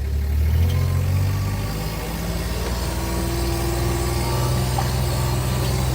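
A vehicle's engine picking up speed: its low note steps up twice in the first two seconds, then holds at a steady run.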